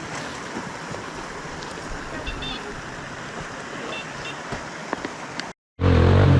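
Steady rushing outdoor noise with two brief high chirps, then after a sudden cut, near the end, a loud off-road vehicle engine running.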